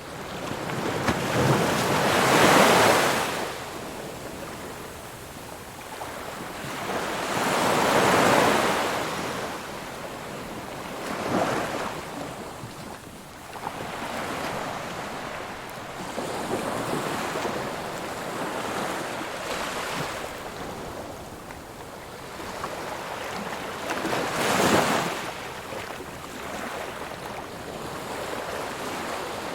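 Ocean waves breaking on a beach. Each break swells and falls away over a couple of seconds, with the hiss of washing surf between them. The biggest breaks come about two and eight seconds in, and again near the end.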